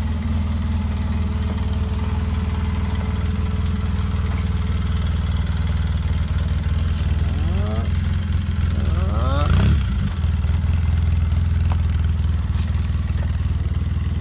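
Vehicle engine idling steadily while backing a trailer, with a brief rise in revs about nine seconds in.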